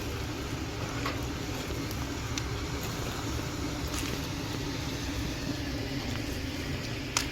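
Wood campfire burning: a steady low rumble with scattered sharp crackles and pops, the loudest near the end.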